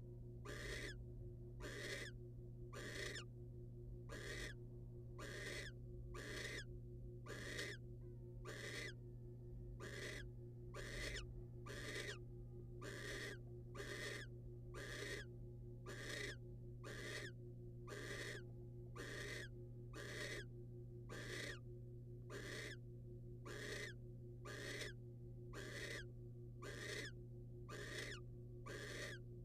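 Barn owl food-begging calls: rasping, snore-like hisses repeated evenly about twice a second, over a steady low electrical hum.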